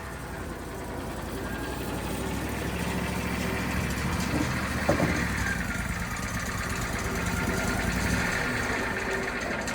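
Portable band sawmill's engine running steadily as the blade cuts through a log, with a single knock about five seconds in. It breaks off abruptly at the end.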